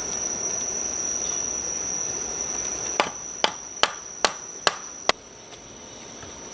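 Six sharp knocks in quick, even succession, about two a second, starting about halfway through, over a steady high-pitched insect chirr, typical of crickets.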